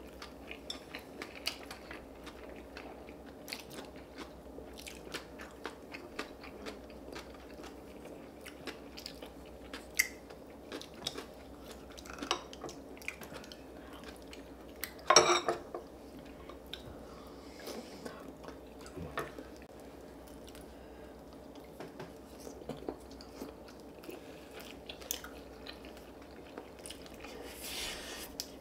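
Close-miked eating: chewing and crunching bites, with scattered small clicks of utensils and dishes. One louder knock comes about halfway through.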